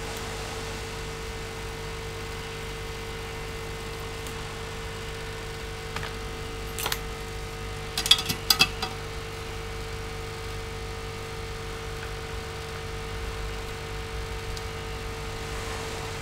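Steady background hum, broken by a few sharp clicks and taps about six and seven seconds in and a quick cluster of them around eight to nine seconds in.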